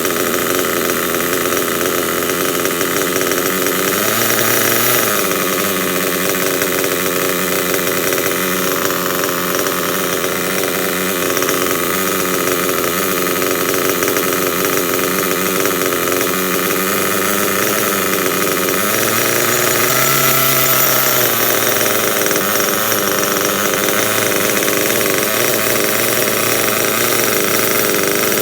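Small nitro RC buggy engine running at idle, its pitch shifting briefly about four seconds in and again a little past the middle.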